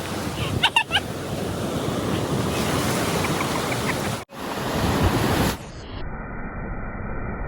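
Sea waves washing on a beach with wind buffeting the microphone, a steady rushing noise. About four seconds in it cuts off abruptly, then carries on duller and more muffled.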